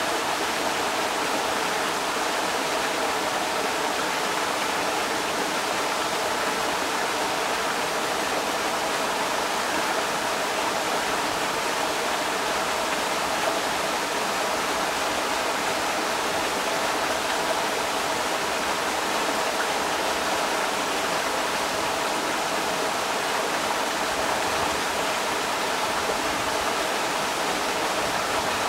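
A creek's water rushing steadily over rocks, a constant even wash of noise.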